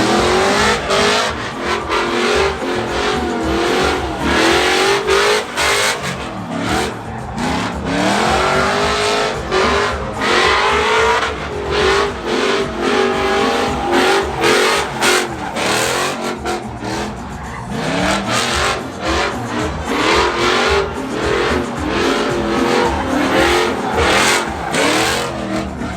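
A truck doing a burnout: the engine revs up and down again and again over a steady roar of squealing, spinning tyres.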